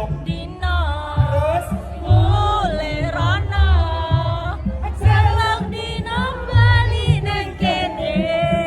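Live band music: a singer holding long, wavering notes over a heavy, pulsing bass line.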